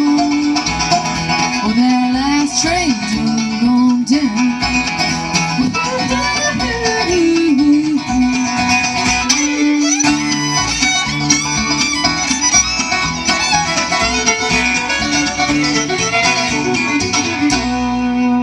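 Bluegrass band playing an instrumental passage, with a fiddle lead over guitar and banjo. The tune closes on a held final chord near the end.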